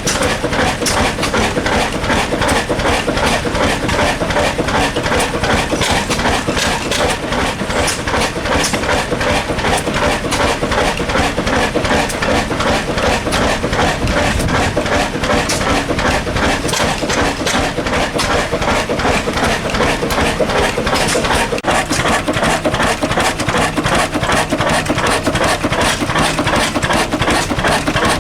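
A 37 hp diesel engine running steadily, with a rapid, even beat.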